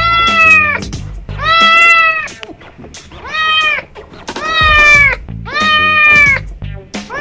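A young grey tabby-and-white kitten meowing loudly over and over, about six meows in quick succession, each under a second long and rising then falling in pitch.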